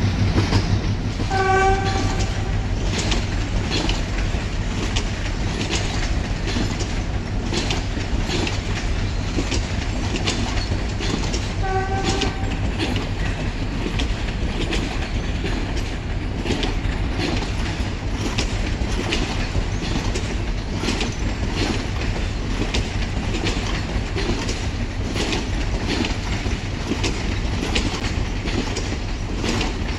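Passenger train hauled by a Class M6 diesel locomotive moving past: a steady clickety-clack of coach wheels over rail joints, with the locomotive's engine drone fading away over the first several seconds. The horn gives two short toots, one near the start and one about ten seconds later.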